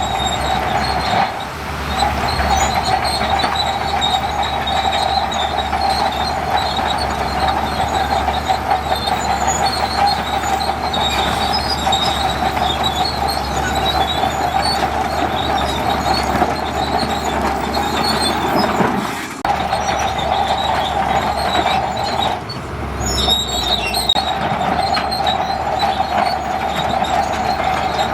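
Crawler bulldozer working sand: a steady diesel engine with the high, continuous squeal and clatter of steel tracks, dipping briefly a few times.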